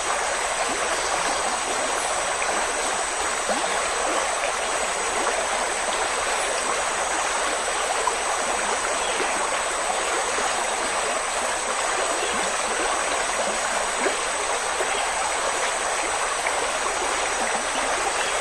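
Wind blowing steadily through leafy trees, a dense, even rustle with no lulls, with a thin steady high-pitched tone above it.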